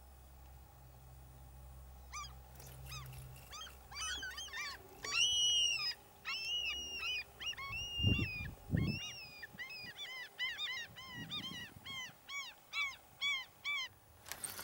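A bird calling over and over: a run of short calls that rise and fall in pitch, two or three a second, starting about two seconds in, with a few longer, louder calls in between. Two low thumps come about eight seconds in.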